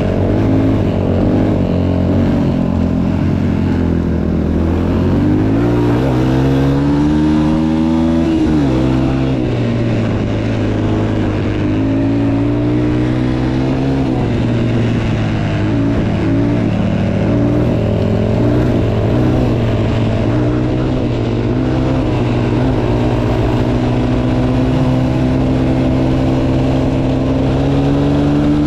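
Motocross motorcycle engine running under way, its revs climbing and dropping again and again as the rider works the throttle and gears. About six to eight seconds in there is one long climb that falls away sharply.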